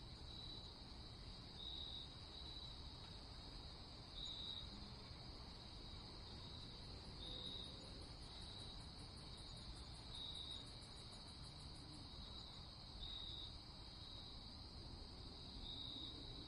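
Crickets chirping in a steady, high-pitched trill that swells in short louder spells every couple of seconds, over a faint low background hiss.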